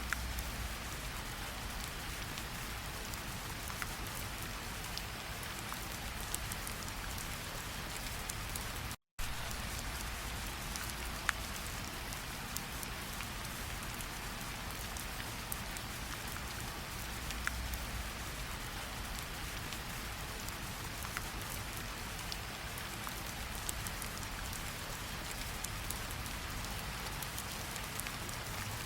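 Steady rain falling on leaves and ground, a continuous hiss with scattered sharper drop ticks. The sound cuts out for a split second about nine seconds in.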